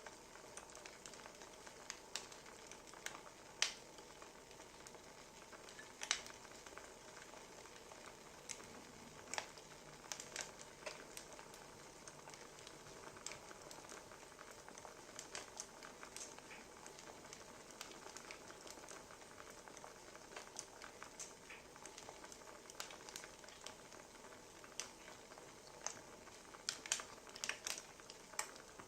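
Wood fire crackling faintly, with irregular sharp pops from the burning logs over a soft steady hiss.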